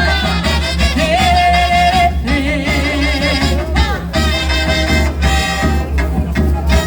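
Live orchestra-style bumba-meu-boi music: held, wavering melody notes over a steady, dense low drum beat, with no sung words.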